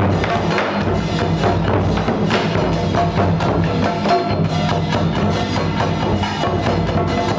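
Ceremonial music with fast, continuous wood-block and drum strikes over sustained tones.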